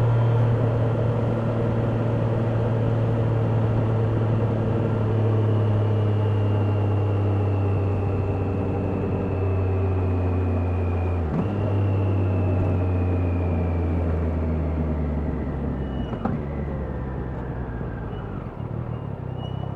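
Triumph Daytona 660's inline three-cylinder engine running under way, with road and wind noise. The engine's pitch sinks slowly as the bike eases off, broken briefly just past halfway and again later on by what sound like gear changes.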